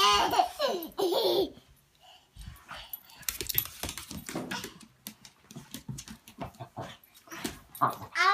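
A baby's wail trailing off in the first second or so, then a run of short, soft, breathy sounds from a pet dog close by, and the baby starting to cry again near the end.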